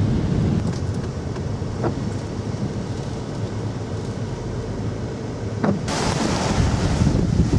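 Strong storm wind blowing across the microphone: a steady low rumble that suddenly turns hissier and louder about six seconds in.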